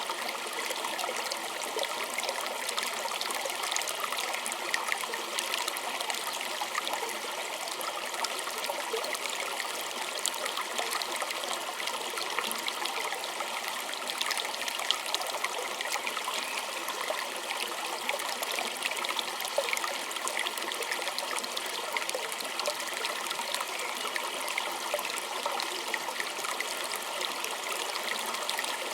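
A small stream trickling and splashing steadily over stones, with many small splashes and gurgles and no pauses.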